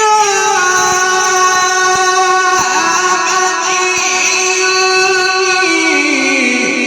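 A male Quran reciter's voice through the loudspeaker system, holding one long melodic note. It swells in at the start, stays steady, then steps down in an ornamented run near the end.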